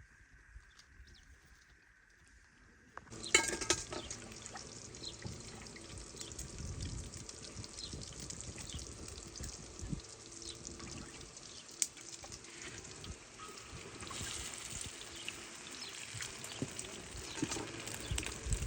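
Water pouring and trickling with small splashes. It starts abruptly about three seconds in, after a faint steady tone.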